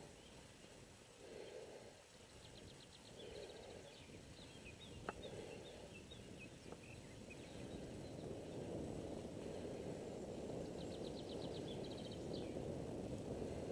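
A songbird sings twice, each phrase a quick trill of ticks followed by a run of short falling chirps, over a low rushing noise that swells in pulses at first and then grows steadier and louder in the second half. A single sharp click about five seconds in.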